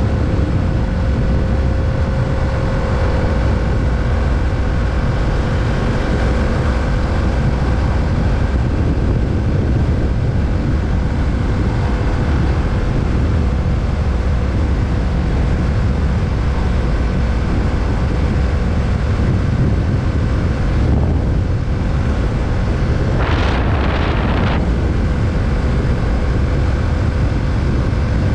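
2020 Kawasaki Z650's parallel-twin engine running steadily under way, with wind noise on the microphone. A short burst of hiss comes about twenty-three seconds in.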